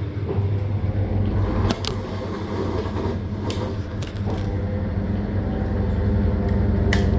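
Living & Co 5.5 kg top-load washing machine running with a steady low motor hum, a few short clicks over it.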